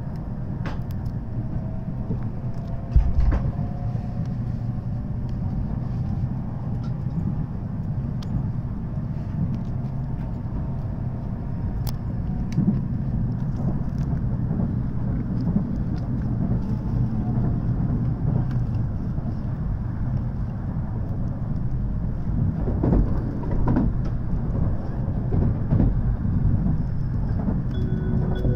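Inside the cabin of an N700S Shinkansen train accelerating out of the station: a steady low rumble of the running train, with a faint whine from the traction motors rising slowly in pitch over the first several seconds. A single thump about three seconds in.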